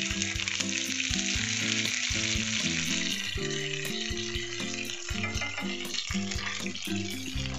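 Curry leaves sizzling and spitting in hot mustard oil in a nonstick frying pan, stirred with a metal fork.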